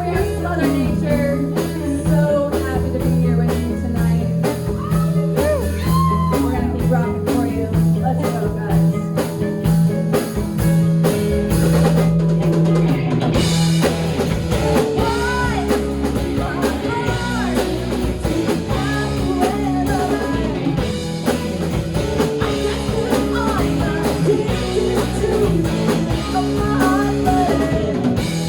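Rock band playing live: drum kit, bass and electric guitar, with a lead line bending in pitch over the top. About 13 seconds in, the cymbals open up and the sound grows brighter.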